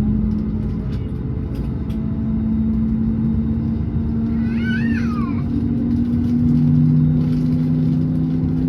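Steady hum and rumble inside an Airbus A320neo cabin on the ground, with two low steady tones that drift slowly up in pitch; the second, lower tone comes in about six seconds in. About halfway through, a brief high, wavering cry rises and falls over the hum.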